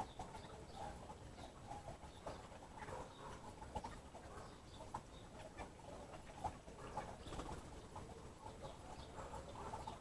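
Faint bird sounds: scattered short calls and small clicks, with no steady song.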